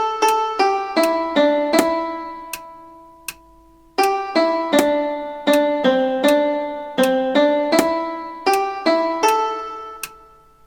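A single-line song melody played note by note on an instrument with sharply struck, quickly decaying notes, like a piano or a plucked string. About two seconds in, one note is held and fades nearly away. The melody picks up again about four seconds in.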